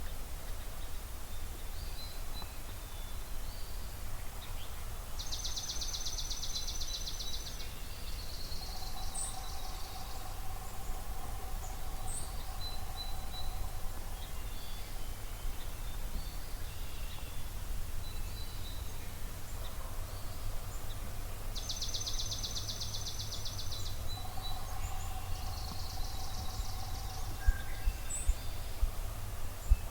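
Dawn birdsong over a marsh. A high, fast trilling song comes twice, about sixteen seconds apart, each time followed by a softer warbling phrase, with scattered faint chirps from other birds over a steady low rumble. A few sharp ticks come near the end.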